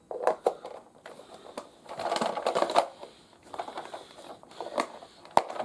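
Hard plastic toy parts clicking and rattling as they are handled and fitted together, with a busier stretch of rattling about two seconds in and a single sharp click near the end.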